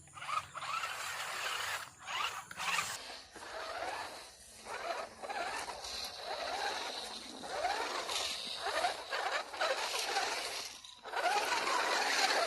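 Toy RC rock crawler's small electric motor and gears whining in bursts, the pitch rising and falling as the throttle is worked while it climbs. It drops out briefly near the end.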